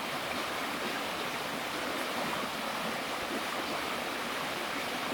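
Running water: a steady, even rush that starts and stops suddenly.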